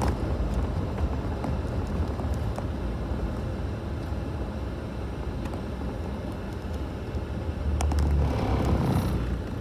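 Road and engine noise inside a moving car's cabin: a steady low rumble that swells louder for a couple of seconds near the end.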